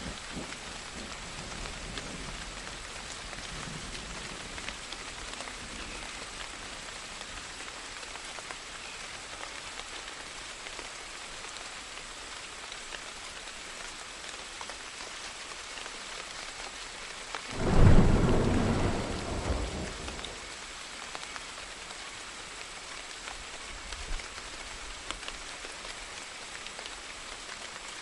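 Steady rain with one loud thunderclap about two-thirds of the way through, breaking suddenly and fading over a couple of seconds.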